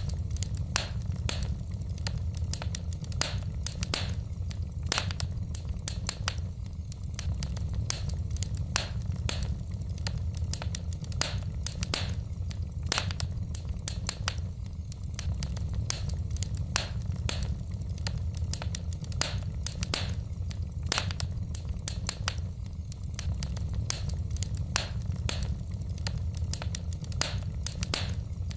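Wood fire burning in a fireplace, the logs crackling and popping in frequent irregular snaps over a low steady rumble of the flames.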